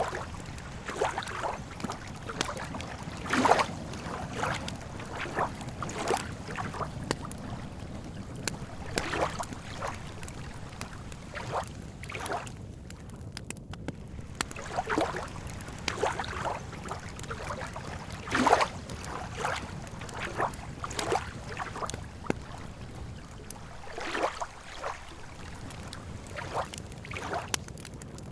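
Campfire crackling, with irregular sharp pops and snaps about a second apart and two louder snaps, over a steady low rumble, with lake water lapping.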